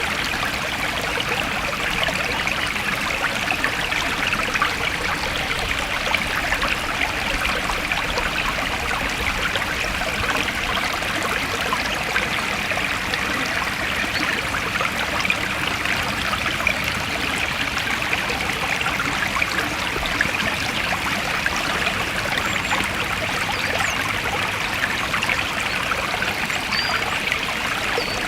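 A forest stream flowing steadily over rocks, a continuous babbling rush of water.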